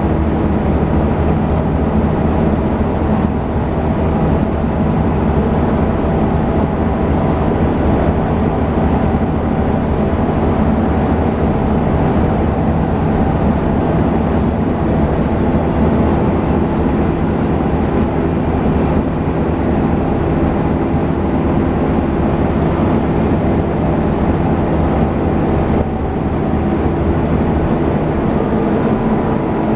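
Volvo B7TL double-decker bus's six-cylinder diesel running steadily under way, with the vacuum-cleaner-like whine that enthusiasts call hoovering.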